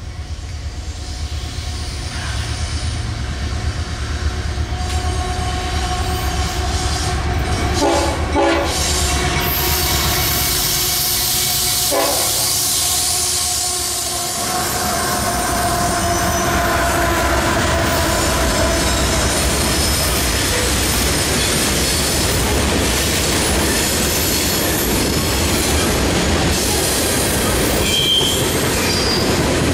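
CSX diesel freight train approaching and passing with its air horn sounding, including short blasts in the middle of a longer sounding. Then the locomotives go by and a string of hopper cars rolls past, its wheels clicking over rail joints and squealing.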